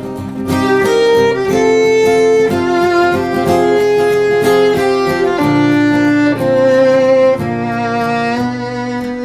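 Violin playing a bowed melody of long held notes over steady acoustic guitar strumming.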